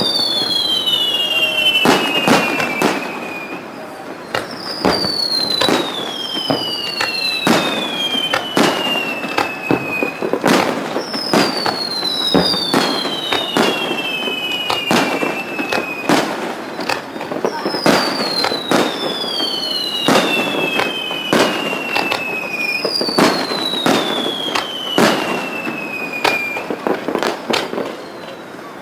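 Aerial fireworks going off in a steady barrage of sharp bangs and crackles. Pairs of falling whistles, each lasting two to three seconds, recur about every six seconds.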